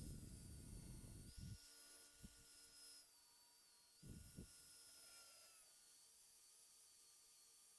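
Near silence: faint room tone with soft low rumbling in the first second or so and a few brief low thumps, two of them around four seconds in.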